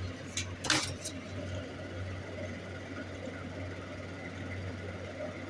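Three short light clicks and knocks of metal work on the bench about half a second to one second in, the middle one loudest, over a steady low hum.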